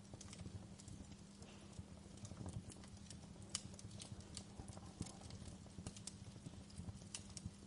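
Wood fire crackling, with irregular sharp pops and snaps over a low rumble of burning flames and a steady low hum.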